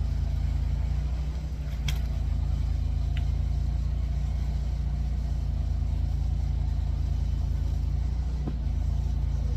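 An engine idling steadily, with a few sharp clicks or knocks, one about two seconds in and another near the end.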